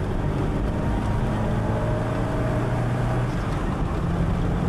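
Car engine and road noise heard from inside the moving car's cabin. The engine note climbs gently, then drops away about three seconds in.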